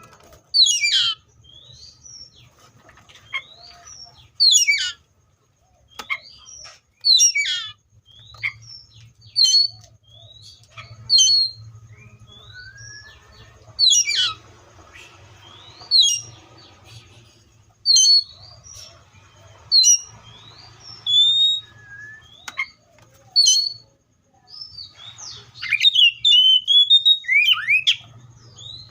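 Seychelles magpie-robin singing: loud, sharp notes that sweep steeply down in pitch every second or two, with short clear whistles in between and a quicker run of notes near the end.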